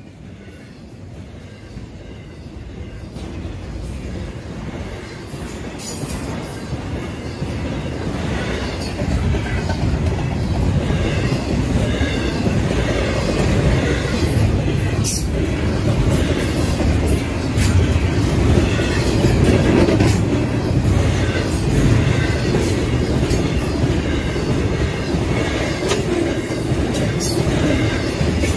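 Double-stack intermodal freight train's container cars rolling past close by, their wheels rumbling and clacking over the rails. The sound grows louder over the first ten seconds or so, then holds steady.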